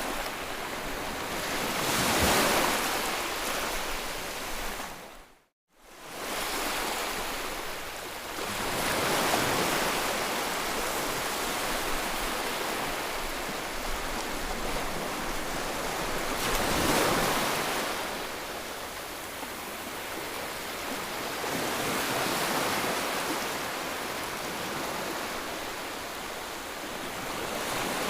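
White noise for soothing a baby: an even hiss that slowly swells and ebbs every several seconds. It drops out briefly to silence about five and a half seconds in, then fades back up.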